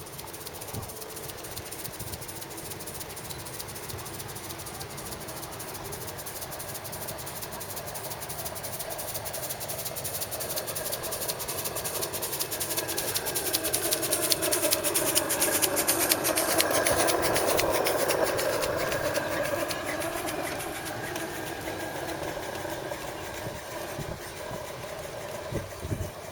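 Gauge 1 model of the Peppercorn A1 pacific 'Tornado' running on track, with fast, even exhaust beats and steam hiss. It grows louder as it approaches, is loudest about two-thirds of the way through as it passes, then fades as it moves away.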